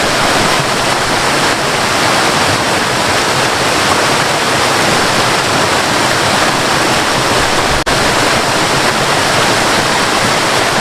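Waterfall rushing, a loud steady roar of falling water, with a brief dropout about eight seconds in.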